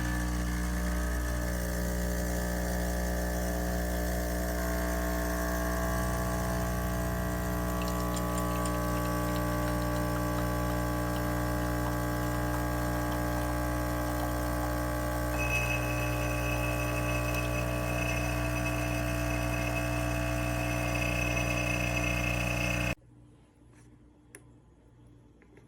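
De'Longhi Stilosa espresso machine's pump running with a steady hum, a thin high whine joining partway through, then switching off abruptly near the end, leaving a few faint ticks.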